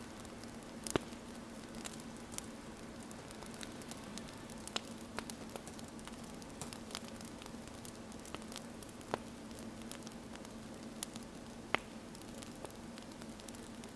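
Wood fire crackling: a steady soft hiss with scattered sharp pops, a few louder ones standing out about a second in, near the middle and near the end.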